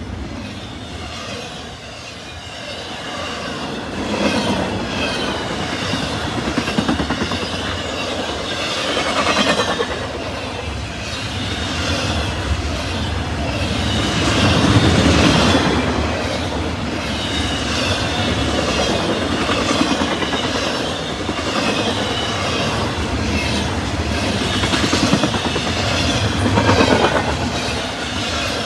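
CSX freight train rolling past, its cars' wheels clicking over the rail joints amid a steady rush of rolling noise, swelling twice as heavier cars go by.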